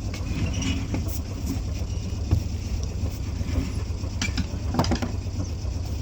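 Sailboat's engine running at low speed, a steady low rumble, with a few light clicks and knocks.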